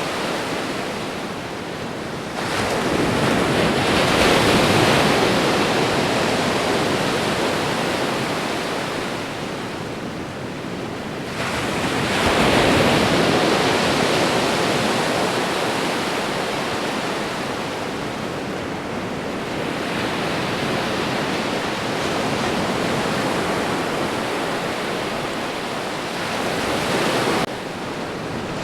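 Ocean surf: waves breaking and washing up the shore in a continuous rushing hiss. Two larger waves surge in, a few seconds in and again about twelve seconds in, each swelling and then fading into the wash.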